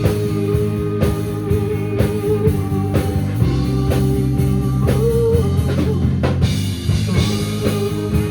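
Live rock band playing an instrumental passage with no singing: drum kit, electric guitars and bass.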